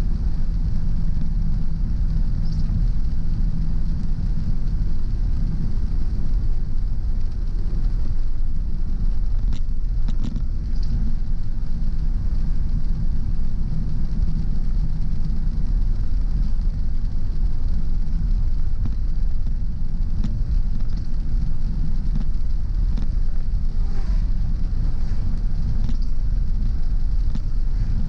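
Car driving along at a steady speed: a steady low drone of road and engine noise.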